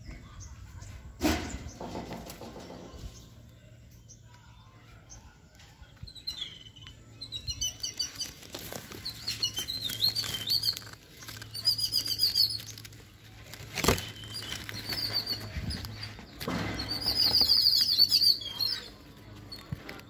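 Small birds chirping in quick runs of high notes, coming in several bursts from about a third of the way in, over rustling and knocking of leaves and branches being pushed aside.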